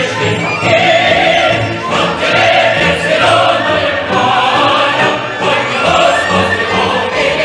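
Choral music with singing voices over orchestra, slow held notes.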